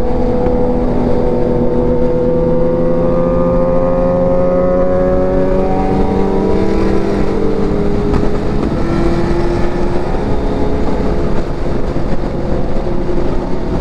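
Kawasaki Z900's inline-four engine running at highway speed. Its note rises slowly as the bike accelerates for about six seconds, then drops as the rider eases off, over a steady low rush of wind and road noise.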